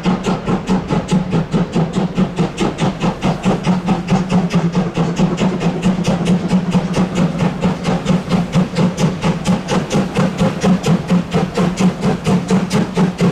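H0-scale Roco BR 01 model steam locomotive's sound decoder chuffing steadily, about four to five beats a second, over a steady low hum.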